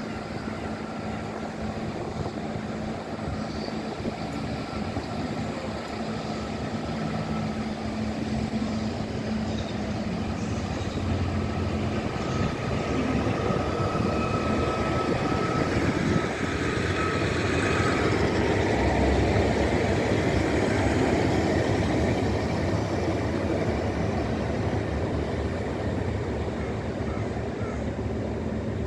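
Class 150 diesel multiple unit passing along the platform: diesel engines running with a steady whine and the rumble of wheels on rails, building up to its loudest as it goes by close about two thirds of the way in, then fading as it pulls away.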